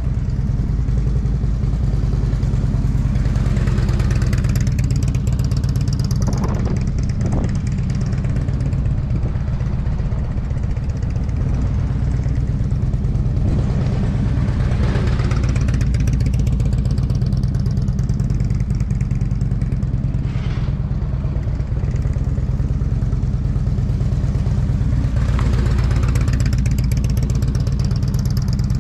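Motorcycle engine running during slow riding, swelling louder three times, roughly every ten to twelve seconds, as it passes close, over a steady low rumble.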